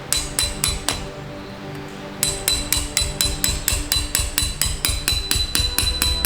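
Rapid hammer blows on metal, ringing sharply: a short run of strikes, a brief pause, then steady strikes about five a second. Background music plays underneath.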